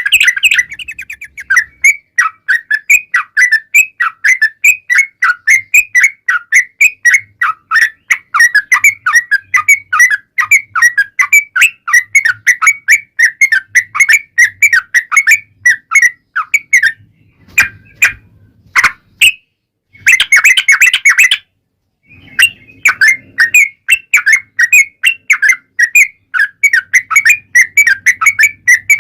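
Yellow-vented bulbul (trucukan) singing long, rapid runs of short chirping notes, broken once by a brief pause and a dense burst of calls about two-thirds of the way through.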